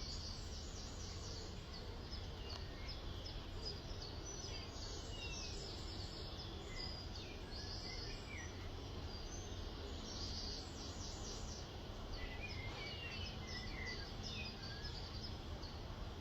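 Several small birds chirping throughout, with quick high calls and a few short falling whistles, over a steady low background hum.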